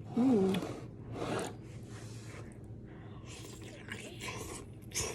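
A woman hums "mm" as she tastes a mouthful of hot food, then chews close to the microphone with soft wet mouth sounds and a sharp click near the end.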